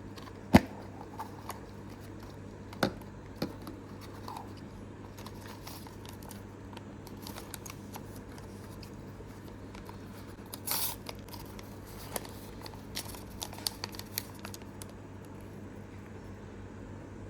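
Hands handling plastic Mini Brands toy capsule balls and their wrapping: a few sharp plastic clicks, a brief rustle or tear about eleven seconds in, then scattered light ticks, over a faint steady hum.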